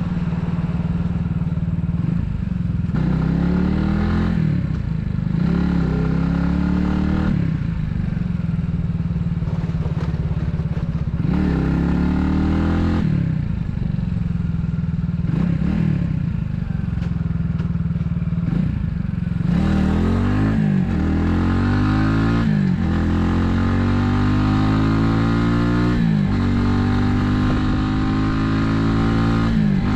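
Italika 250Z motorcycle engine pulling away and accelerating again and again. Its pitch climbs and drops back at each gear change, with steadier running in between.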